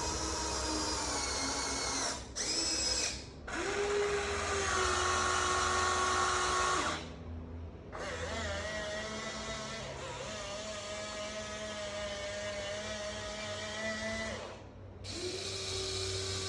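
Small electric motors of a Huina 1593 radio-controlled excavator whining in a series of runs, each at its own pitch and stopping briefly between them as different movements are driven.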